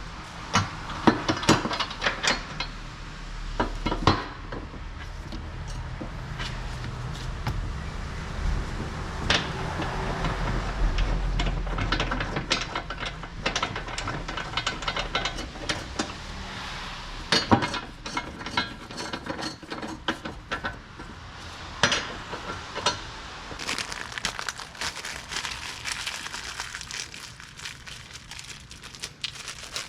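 Metal hand tools and suspension parts clinking and knocking during front subframe bushing work, in irregular sharp strikes. A low steady hum underlies the first dozen seconds, then stops.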